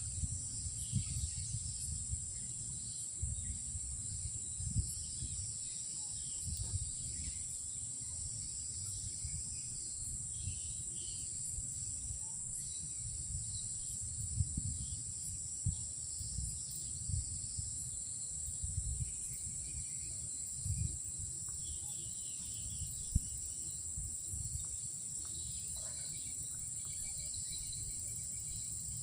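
Night insect chorus, a steady high-pitched shrill trill of crickets or similar insects, with irregular low rumbling and a few faint clicks underneath.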